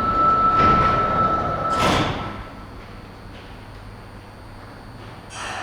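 Doors of a Sapporo subway 5000-series train sliding shut before departure: a steady tone stops about two seconds in, with a sudden rush of noise as the doors close. A low steady hum follows, and a short burst of noise comes near the end.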